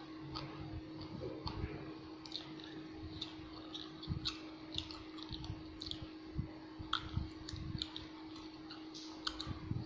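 A person chewing a mouthful of sushi rolls close to the microphone: irregular soft mouth clicks and wet smacks, over a faint steady hum.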